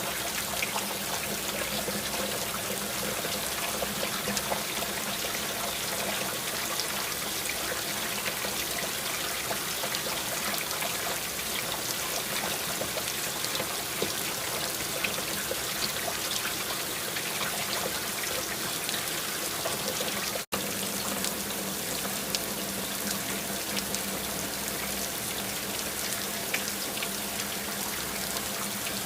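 Steady rain falling, a continuous wash of water with many individual drops ticking through it. The sound breaks off for a split second about twenty seconds in.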